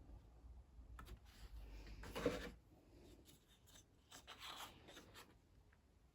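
Faint scratching and rubbing of a drawing tool on paper, in two short spells, the louder about two seconds in.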